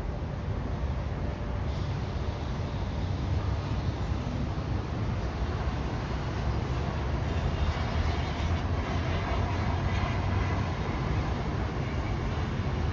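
Steady low outdoor rumble with a hiss over it, the higher part growing a little fuller from about six seconds in.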